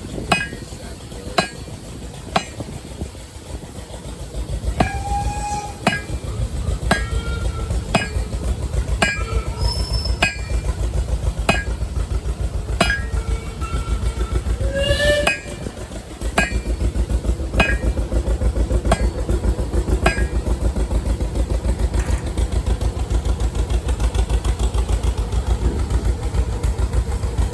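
Hammer striking hot metal on an anvil about once a second, each blow ringing, over the steady low pulsing of an engine running.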